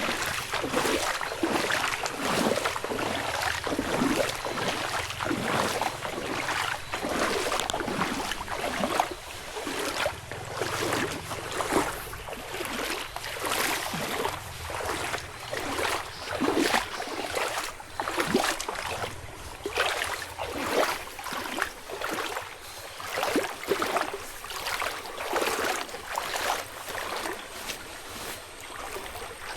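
Footsteps crunching and swishing through leaf litter and dry ground on a forest path at a steady walking pace, about two steps a second.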